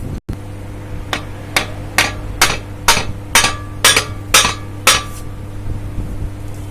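Hammer blows on the crankcase of a Bajaj Discover 125 engine to knock the main case half loose: about nine sharp metallic strikes, roughly two a second, each with a short ring. A steady low hum runs underneath.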